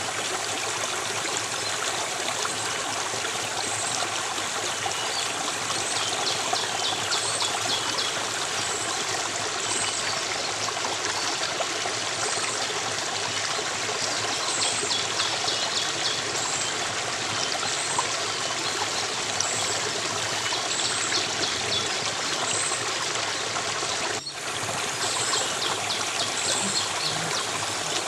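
A flowing stream, a steady rush and trickle of water. Short high chirps recur about once a second over it, with bursts of rapid trilling three times.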